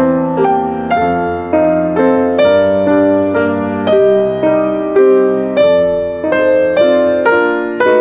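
Background music: soft piano playing a slow melody of single struck notes, about two a second, each ringing and fading.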